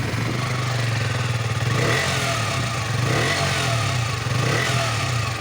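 KTM RC 125's single-cylinder four-stroke engine running in neutral through its stock underbelly exhaust, blipped up from idle three times in short revs.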